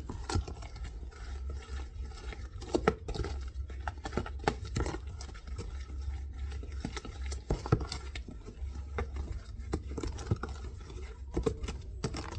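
A spoon stirring a thick snow cream mix of snow, milk, sugar and eggs in a bowl: irregular scrapes and clicks against the bowl. A low steady hum runs underneath.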